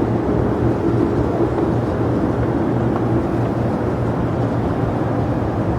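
Jet airliner engines running with a steady low rumble.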